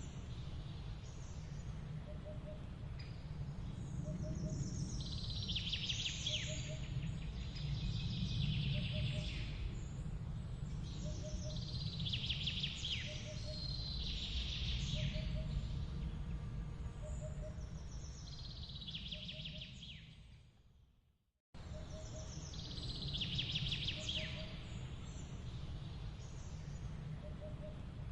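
Forest ambience: birds calling in short bursts every couple of seconds over a steady low rumble, with a faint regular ticking. It fades out about twenty seconds in, then cuts straight back in.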